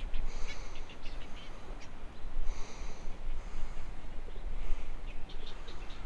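Birds calling in short, high, chattering bursts that come again about every two seconds, over a steady low rumble.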